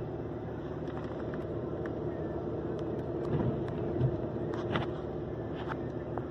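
A vehicle engine running steadily, with scattered light ticks over it.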